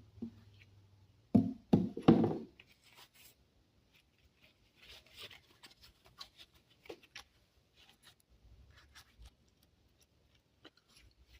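Hands working repair materials for a floor patch: a few loud sharp knocks about a second in, then scattered light scrapes, clicks and rustles.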